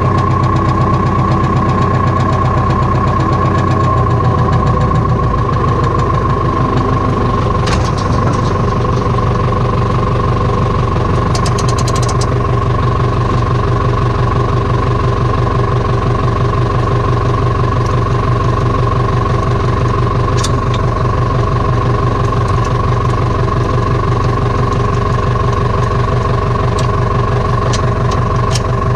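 Case JX85 tractor's diesel engine running steadily up close, with a few short clicks and knocks over it.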